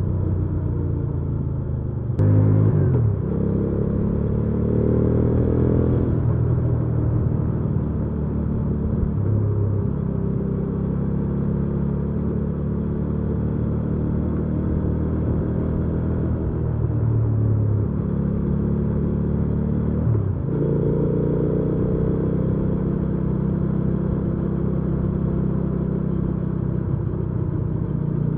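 Hyosung GV300S Aquila 300 V-twin engine running under way. About two seconds in there is a sharp click, then the revs climb over a few seconds. It holds a steady cruise, then about twenty seconds in the revs dip and climb again.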